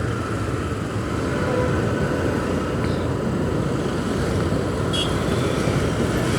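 Motorcycle on the move: steady engine and road noise while riding.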